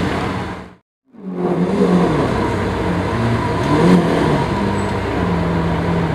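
Lamborghini Aventador S V12 engine running at low revs as the car creeps along, rising gently in pitch about two and four seconds in. The sound cuts out to silence for a moment about a second in.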